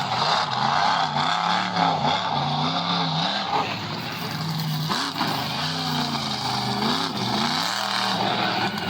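Monster truck engine revving, its pitch rising and falling over and over about once a second.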